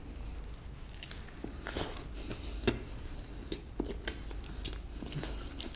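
A man biting into and chewing a mouthful of chicken burger, with irregular soft wet smacks and clicks of chewing throughout.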